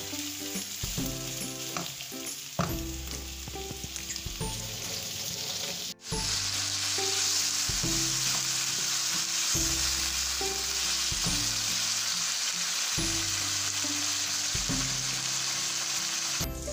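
Spiced chicken pieces sizzling as they fry in a non-stick pan, stirred with a wooden spatula, over soft background music. About six seconds in there is a brief dropout, after which the sizzling is louder.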